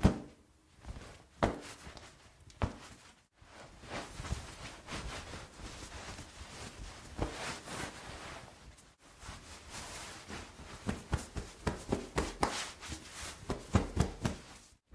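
Long wet hair being dried by hand: rustling and rubbing, broken by short sharp slaps as the hair is flicked, with a quick run of slaps near the end.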